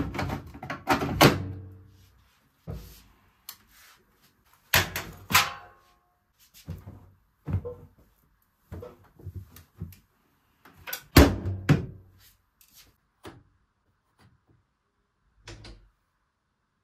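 A series of separate knocks and clatters from objects being handled and set down, with quiet gaps between them. The loudest come at the start, about five seconds in and about eleven seconds in.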